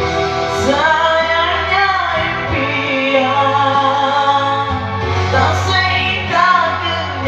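A woman singing with held, gliding notes over backing music.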